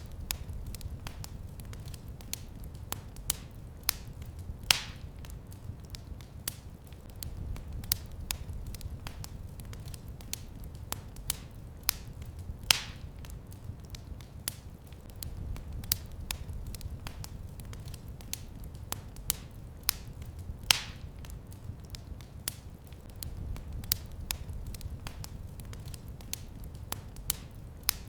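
Wood fire crackling in a fireplace: irregular sharp snaps and pops over a steady low rumble of the flames, with a few louder pops.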